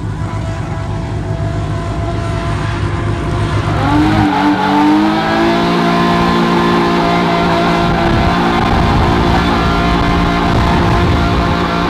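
Drift car's engine and tyres during a slide: a rough rumble at first, then about four seconds in the engine note climbs and is held steady at high revs. The second part is heard from inside the car's stripped, roll-caged cabin.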